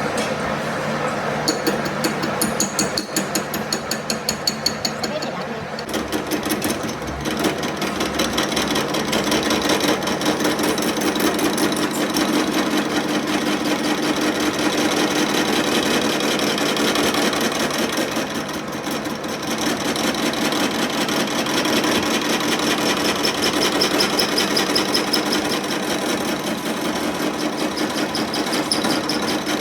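A metalworking tool running on metal with a fast, continuous rattle of rapid strikes. The rattle is somewhat lighter in the first few seconds and denser from about six seconds in.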